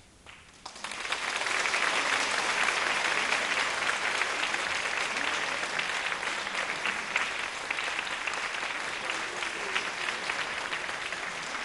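Audience applauding: dense clapping that starts about a second in, just after the music ends, and holds steady.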